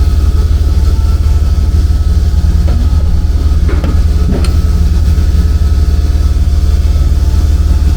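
Steady, loud low machine hum with a fast, even pulse, with a few faint ticks about three to four and a half seconds in.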